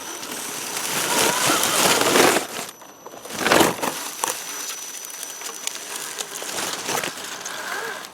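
Crunching and scraping of an RC scale crawler's tyres on rock and grit, loudest about two and three and a half seconds in, with a faint high steady whine from its electric motor.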